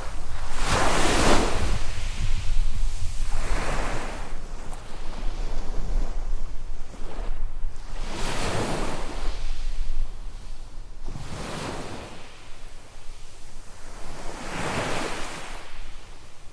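Small waves breaking on a sandy beach: about five surges, each swelling and washing out over a second or two. A low wind rumble sits on the microphone underneath.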